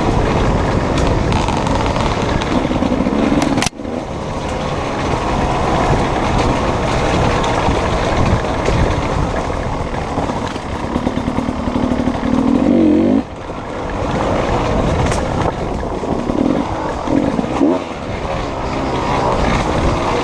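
Beta two-stroke enduro motorcycle's engine running under changing throttle, heard from the bike itself over its rattle on rough ground. Its pitch climbs for a couple of seconds and cuts off sharply about two-thirds of the way through, with a brief sudden drop near the start.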